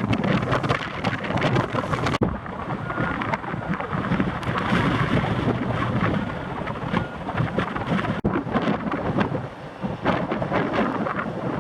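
Strong wind buffeting the microphone: a dense, gusting rumble that breaks off sharply twice, about two seconds in and again about eight seconds in.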